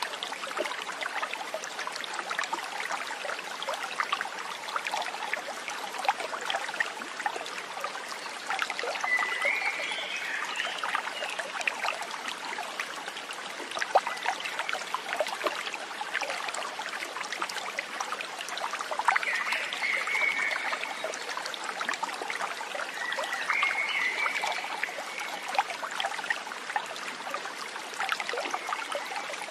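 Shallow stream trickling and babbling over stones, steady throughout. A bird gives short whistled calls three times: about a third of the way in, two-thirds in, and again shortly after.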